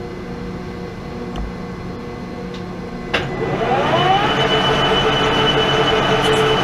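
Pratt & Whitney Model B metal lathe running with a steady hum. About three seconds in there is a sharp clunk, and the drive spins up with a rising whine that settles into a louder, steady run with a high-pitched whine on top.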